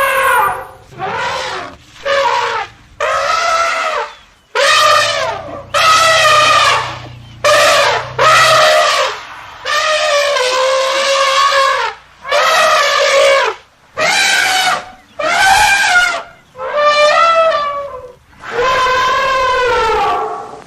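Elephant trumpeting: a quick series of about a dozen loud, brassy calls, each around a second long with short breaks between, some bending in pitch.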